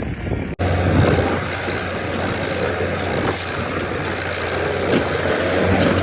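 Diesel engine of a backhoe or tractor running steadily, a low even hum, after an abrupt edit cut about half a second in.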